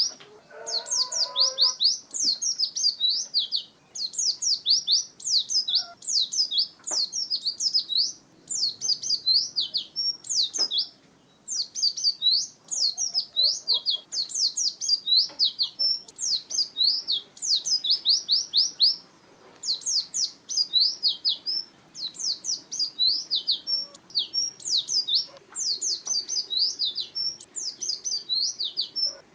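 A pleci (white-eye) singing: long runs of fast, high-pitched twittering chirps, broken by brief pauses every few seconds.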